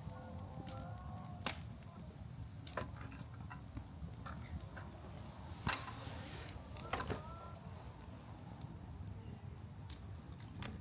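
Several scattered sharp cracks or knocks, the loudest about halfway through, over a steady low rumble.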